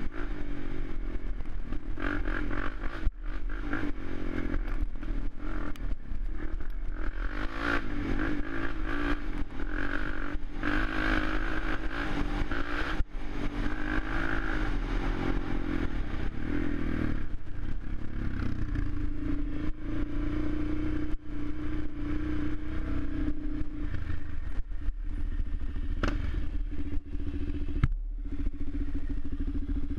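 Suzuki LTZ 400 quad's single-cylinder four-stroke engine running, its pitch rising and falling with the throttle for the first half, then holding steadier, with scattered knocks and rattles.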